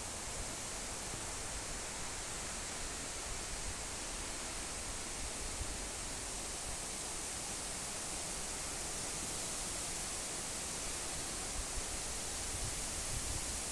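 Wind blowing through forest trees, a steady rushing hiss of moving branches and leaves, with low rumbling gusts of wind hitting the microphone near the start and again near the end.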